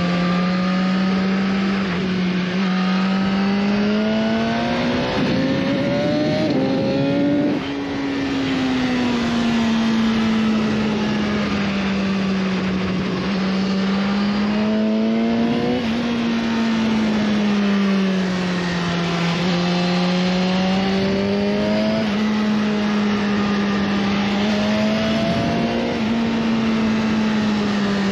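BMW S1000RR's inline-four engine running hard at speed with wind rushing past: the engine note climbs and falls as the bike pulls and eases off, with a brief dip about seven and a half seconds in.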